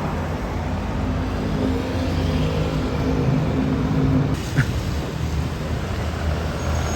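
Road traffic with a motor vehicle's engine running close by as a steady low drone, and one short sharp knock about four and a half seconds in.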